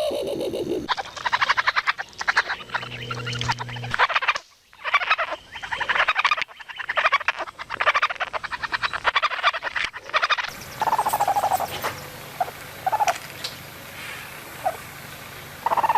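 Raccoons giving rapid, pulsing trills and chitters in a series of runs. From about ten seconds in, these give way to short, high, repeated whimpering calls.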